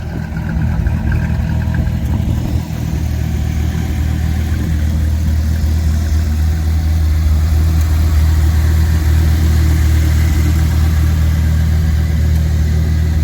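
Dodge Viper SRT-10's 8.3-litre V10 idling steadily, still warming up after a cold start, with a deep, even exhaust note.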